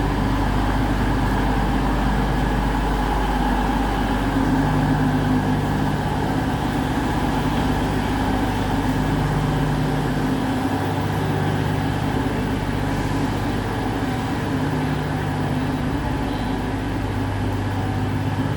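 Class 222 Meridian diesel multiple unit standing with its underfloor diesel engines idling: a steady, even hum with no change in level.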